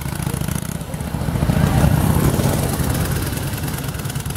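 Vintage motorcycle engine running, getting louder about a second and a half in.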